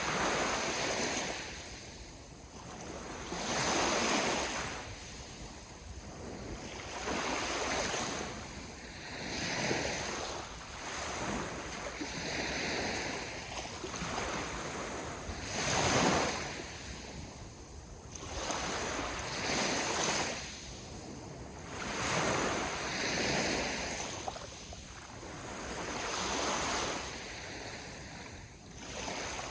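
Ocean waves breaking and washing up the shore, a rush of surf that swells and falls back every few seconds, one surge about four seconds in and another near the middle louder than the rest.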